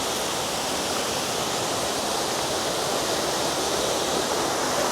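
Waterfall's steady, unbroken rush of falling water, an even hiss with no let-up.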